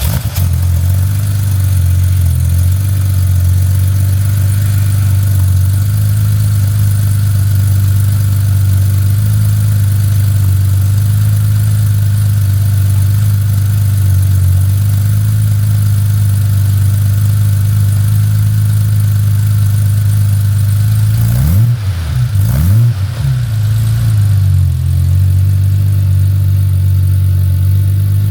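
1990 Porsche 911's air-cooled flat-six idling steadily just after a cold start, with a few quick blips of the throttle about 22 seconds in before it settles back to idle.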